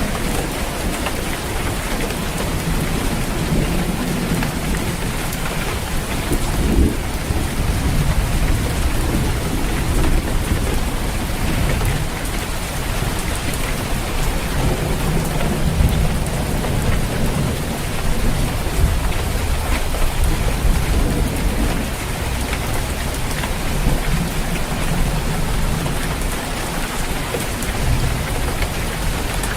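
Steady heavy rain falling on a roof, with low rolling thunder rumbling several times underneath.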